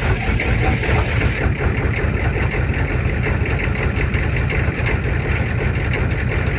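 Ford 7.3 L turbo IDI V8 diesel running at idle just after a cold start, steady but skipping, a cold engine misfiring as it settles.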